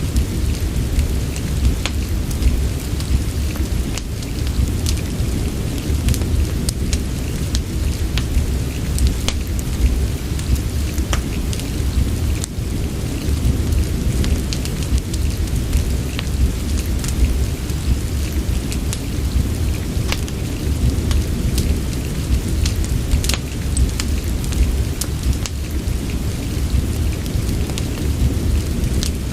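Steady rain mixed with a crackling fireplace: an even hiss over a dense low rumble, with many short sharp crackles scattered throughout.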